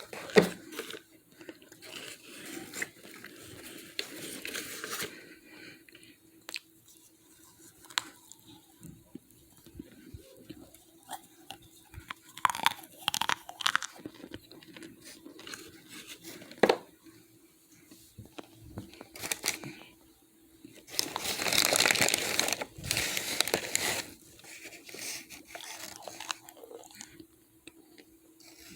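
Irregular crunching and crackling of dry starch chunks in a brown paper bag being handled, in short bursts with a longer, louder stretch about three quarters of the way through. A faint steady hum sits underneath.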